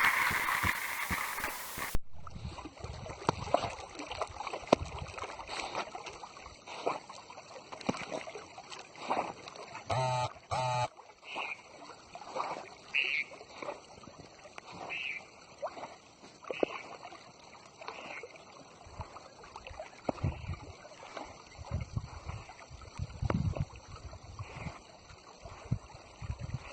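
Water splashing and lapping as dogs swim, with many short irregular splashes.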